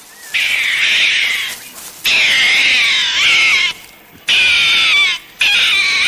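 An animal calling loudly: four long, harsh, wavering cries in a row, each about a second or more, with short breaks between them.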